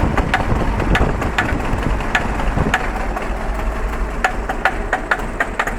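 Fiat Bravo engine idling with a steady low rumble and irregular sharp ticks, a few a second. The owner describes this as the engine shaking with a 'pac' noise at a raised idle.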